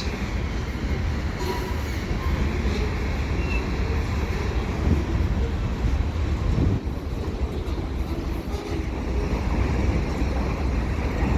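Freight train cars, cement hoppers and box cars, rolling past on the rails with a steady low rumble.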